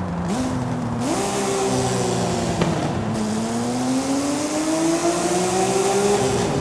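Porsche Speedster's flat-six engine pulling under way: its pitch climbs about a second in, dips briefly about three seconds in, then rises steadily under acceleration until near the end, over a steady rush of wind and road noise.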